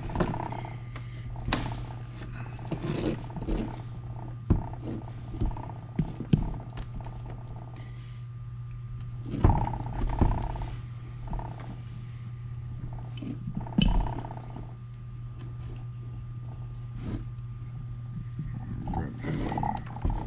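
Rubber tire being pried off a Onewheel's wheel hub with a screwdriver: scattered creaks, scrapes and knocks of rubber and steel against the rim, with louder rough bursts about nine and a half seconds in and around fourteen seconds. A steady low hum runs underneath.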